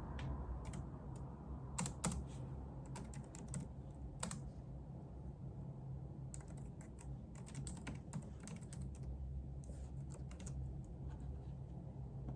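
Typing on a computer keyboard: irregular bursts of key clicks with short pauses between them, over a steady low hum.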